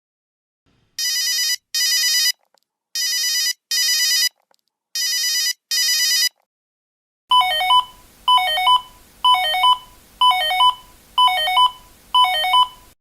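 Two different telephone rings, one after the other. First, three pairs of short electronic rings. Then a second ring of six short tones, about one a second.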